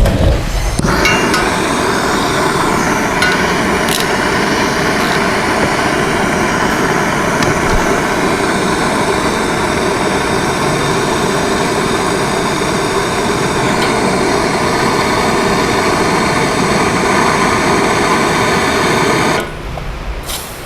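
A power tool running steadily with a whine, starting about a second in and stopping near the end.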